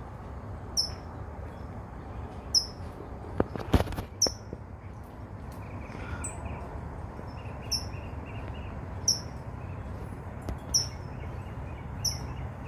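A small bird chirping repeatedly, single short high chirps about every one to two seconds, over a steady low hum. A few sharp clicks about three and a half to four seconds in are the loudest sounds.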